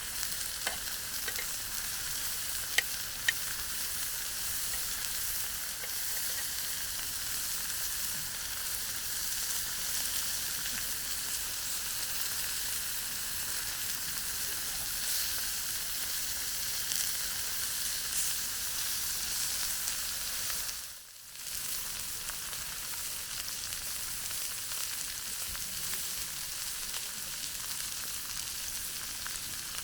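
Chicken frying in a pan over a campfire: a steady sizzling hiss with a few sharp pops in the first few seconds. The sizzle drops away for a moment about two-thirds of the way through, then carries on.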